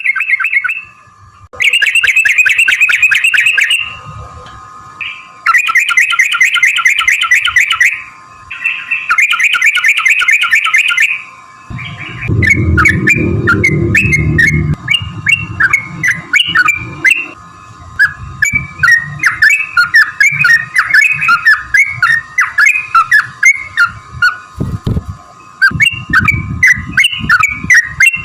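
Yellow-vented bulbul song: four rapid rattling trills of about two seconds each, then a long run of quick chattering notes. A faint steady tone sits underneath, and a low rumble comes in briefly about halfway.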